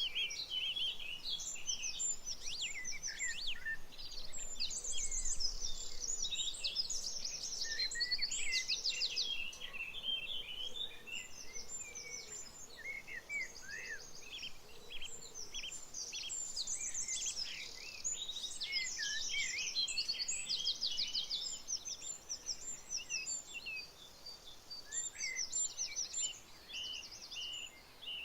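A chorus of several songbirds singing and chirping at once, with quick trills and whistled notes overlapping throughout.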